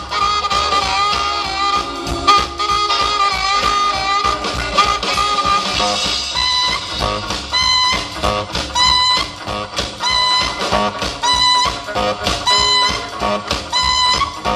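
Live rock-and-roll band playing an instrumental passage without vocals. A held, wavering melody line gives way about six seconds in to a repeated, evenly paced picked guitar figure.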